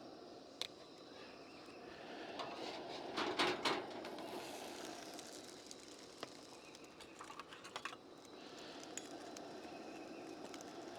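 French toast frying on a camp stove, a faint steady sizzle with scattered light clicks and taps, bunched about three seconds in and again near the middle.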